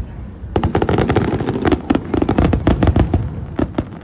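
Fireworks going off in a fast, dense string of sharp bangs and crackles, starting about half a second in.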